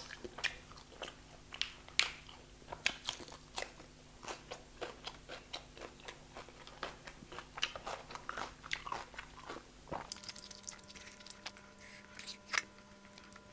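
Close-miked chewing of a mouthful of food: irregular wet mouth clicks and smacks, several a second, with a sharper click near the end.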